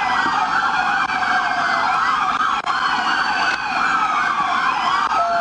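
Several police car sirens wailing at once, their pitches sweeping up and down and crossing each other.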